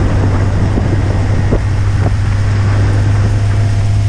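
A vehicle engine running steadily with a low, even drone, with wind rushing on the microphone.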